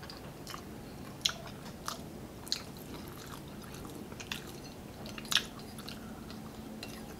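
Mouth sounds of eating: chewing and smacking on spaghetti carbonara and fried chicken pieces, with scattered sharp clicks, the most prominent about a second, two and a half seconds and five seconds in.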